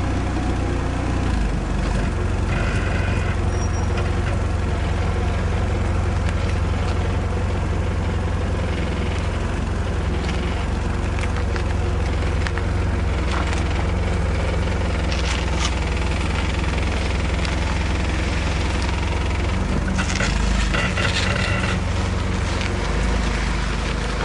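Old car engine idling steadily with a low, even rumble, and a few brief higher-pitched sounds over it, about three seconds in and again near the end.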